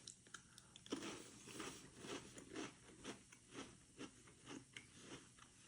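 Faint, rhythmic chewing of a crunchy round cracker spread with artichoke pâté, about two chews a second.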